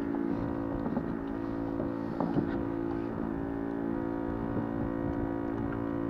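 Boat engine running at a steady pitch, a constant drone with no change in speed, with a few faint light ticks over it.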